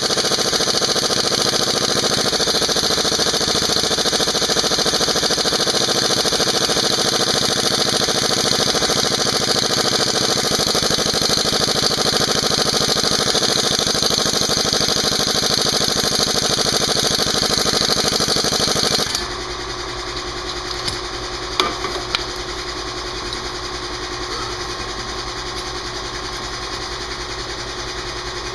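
Piston air compressor running steadily with a low rapid pulse, overlaid by a loud steady hiss that cuts off suddenly about two-thirds of the way through, leaving the compressor alone with a few small clicks.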